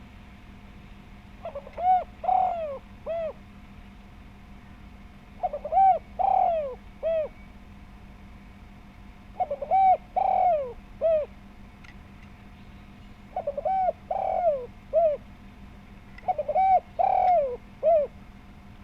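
Spotted dove cooing: five phrases of several coos each, about one every four seconds, over a faint steady hum.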